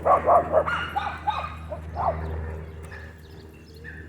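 A dog barking and yipping in a quick string of short calls over the first two seconds, then tailing off, with a steady low wind rumble underneath.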